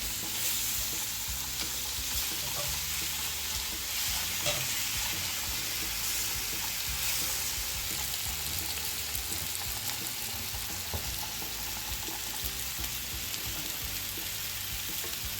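Marinated beef short ribs (LA galbi) frying in a hot skillet: a steady sizzle with a few small pops.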